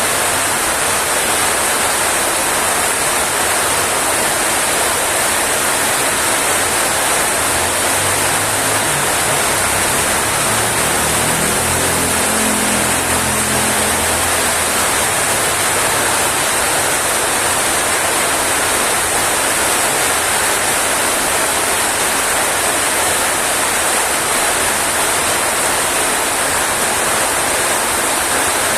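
Heavy rain falling, a loud, steady hiss. A faint low hum swells and fades in the middle.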